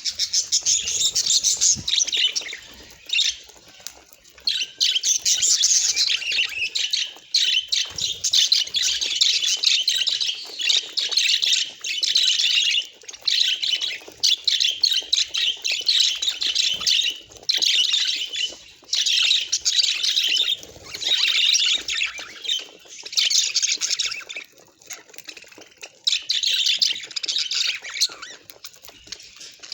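Budgerigars chattering and warbling in busy bouts of a second or two, broken by short pauses.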